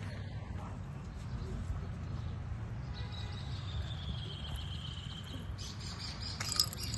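Outdoor street ambience: a steady low rumble, with a long thin high tone slowly falling in pitch from about three seconds in, and a few short sharp chirps and clicks near the end.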